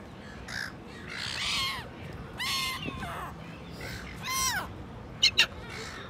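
A bird calling three times, each call rising and then falling in pitch. Two sharp clicks follow near the end.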